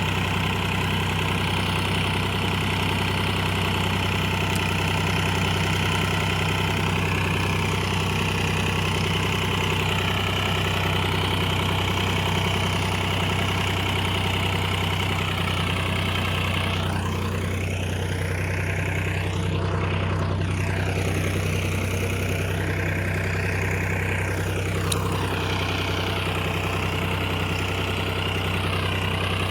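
Massey Ferguson 7250 DI tractor's diesel engine running steadily at an even pitch, its tone sweeping hollowly for several seconds midway.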